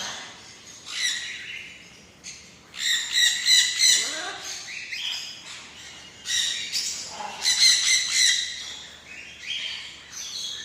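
Sun conure calling with harsh, high-pitched squawks in bursts of quick repeated notes, about a second in, again around three to four seconds, and from about six to eight and a half seconds.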